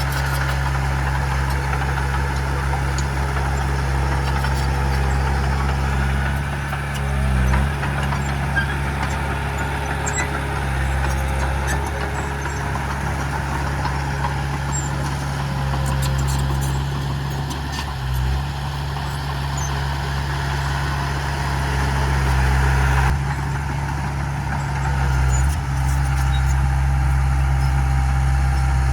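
Heavy diesel engine of construction machinery running steadily, its pitch dipping briefly three times, with faint metallic clinks over it.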